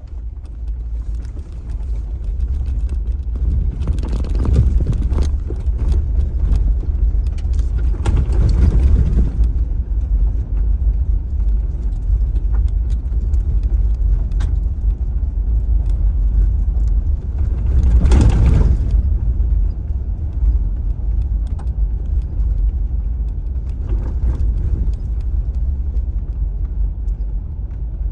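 Car road noise heard from inside the cabin: a steady low rumble of tyres and engine while driving, with three short louder, rattly stretches, about four seconds in, about eight seconds in, and around eighteen seconds in, as the car goes over bumps.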